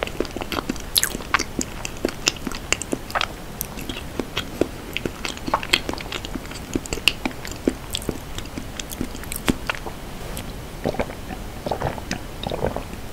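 Close-miked mouth sounds of a person chewing a soft dessert with lips closed: many small wet clicks and smacks. Near the end there are a few gulps as he swallows a drink from a glass.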